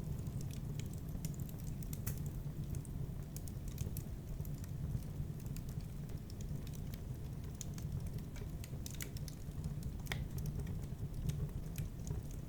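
Wood fire burning in a fireplace: scattered sharp crackles and pops at irregular intervals over a steady low sound of the flames.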